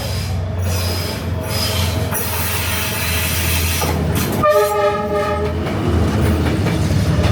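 Vietnam Railways diesel train passing at close range through a narrow street, its engine giving a steady low rumble with wheel and rail noise. Its horn sounds once, about four and a half seconds in, for about a second.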